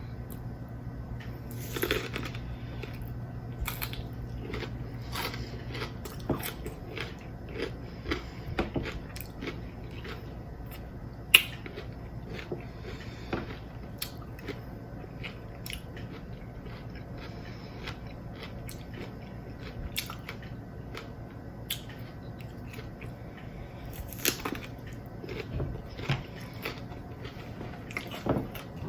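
Close-up chewing and crunching of Takis rolled tortilla chips with cream-cheese-stuffed jalapeño peppers: irregular crisp crunches, the sharpest about eleven seconds in.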